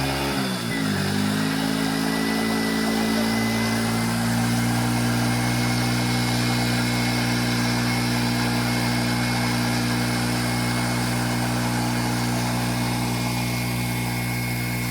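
Vehicle engine whose pitch dips and rises briefly at the start, then settles into a steady idle.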